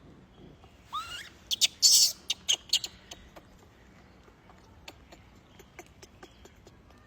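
A baby macaque gives a short squealing call that bends in pitch about a second in. A quick run of sharp clicks and a loud noisy burst follow around two seconds in, then scattered clicks.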